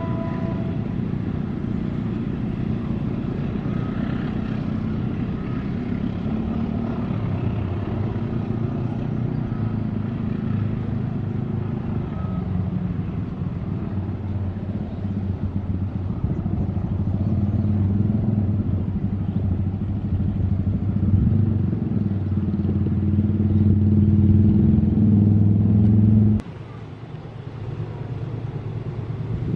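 A diesel-hauled train running past, its locomotive engine drone and the rumble of the train growing steadily louder, then cutting off sharply about 26 seconds in to a quieter rumble. At the very start a multi-note horn is just ending.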